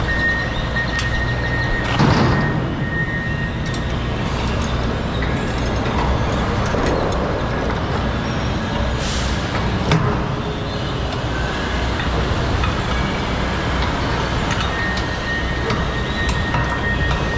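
Truck running down the road, heard from inside the cab as a steady low engine and road rumble. A thin high tone comes and goes, with a knock about two seconds in and a short hiss about nine seconds in.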